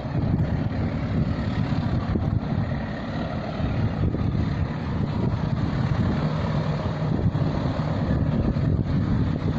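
Freight train passing close by: a steady, loud rumble, with wind buffeting the microphone.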